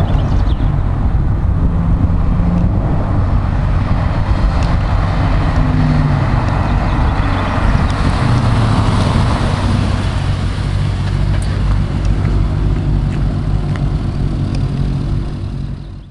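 Audi S4 with a stainless-steel aftermarket exhaust running, its low exhaust note rising and falling a little in pitch, then fading out at the very end.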